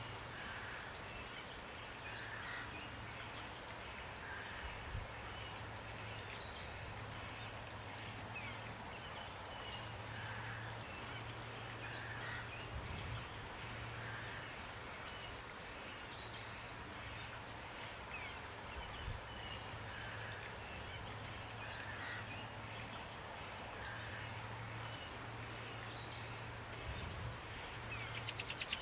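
Steady rain hiss with songbirds calling over it: quick, high, falling chirps every second or so, and a lower call every few seconds. A low, steady hum comes and goes underneath.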